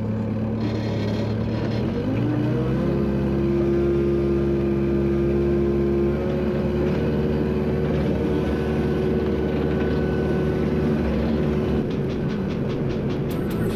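Dump truck engine running under load, rising in pitch about two seconds in and changing again around six seconds in.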